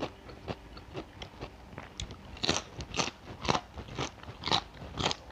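Crunching and chewing of raw vegetables, close to the microphone: sharp, crisp bites that come faster and louder from about two seconds in, roughly twice a second.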